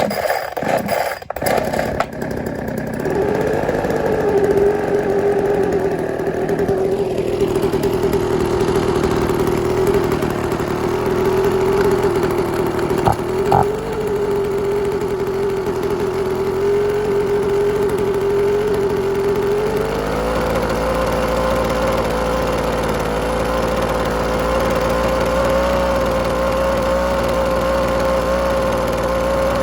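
Toro PowerVac 51988 blower's 25.4 cc two-stroke engine starting up, sputtering unevenly for about two seconds and then running steadily. Its speed steps up about twenty seconds in.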